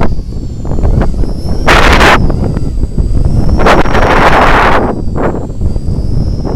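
Blade 200 S electric RC helicopter flying, its motor and rotors giving a steady high whine that wavers slightly in pitch. Heavy wind buffeting on the microphone rumbles throughout, with loud rushing gusts about two seconds in and from about four to five seconds in.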